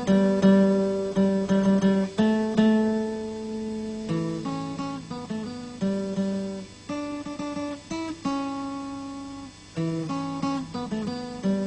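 Acoustic guitar music: plucked notes and strummed chords that ring and fade, in an uneven rhythm.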